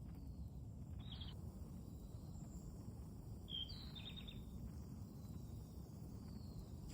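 Steady low outdoor background noise, with a small bird chirping. There is one short call about a second in, and a quick run of chirps at about three and a half seconds.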